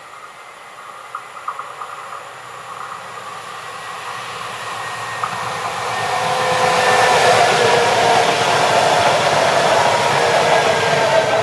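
A Stadler Flirt electric multiple unit approaching and passing close. Wheels run on the rails along with a whine of several steady tones, growing louder over the first six or seven seconds, then holding loud as the train goes by, with some tones sliding down near the end.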